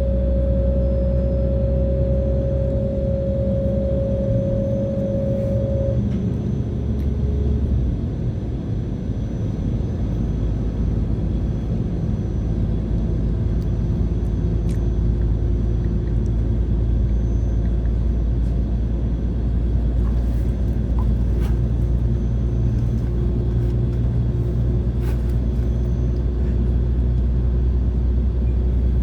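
Steady rumble of a diesel passenger train running, heard from inside the carriage: engine and wheels on the rails. A steady whine stops about six seconds in, and a few faint clicks come later.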